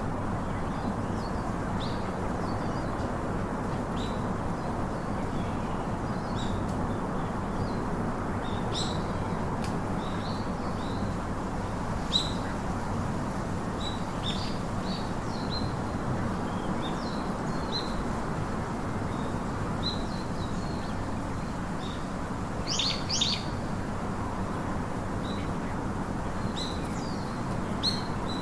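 Birds chirping: short high calls scattered throughout, with a louder burst of calls about three-quarters of the way through, over a steady low background hiss.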